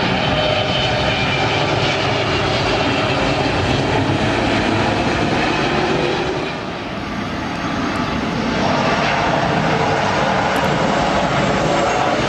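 Jet airliner's engines roaring loudly as it passes close on landing approach, with a steady whine over the rumble; the noise dips briefly about two-thirds of the way through, then swells again.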